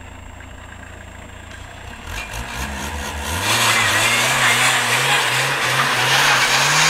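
Volkswagen Golf's engine ticking over low, then revving up about two seconds in. From about three and a half seconds in it is held loud at high revs, the pitch wavering up and down, with a strong hiss as the driven wheels spin and slide on snow.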